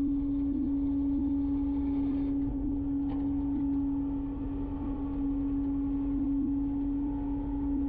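Garbage truck packing its load: a steady whine over the low rumble of the engine.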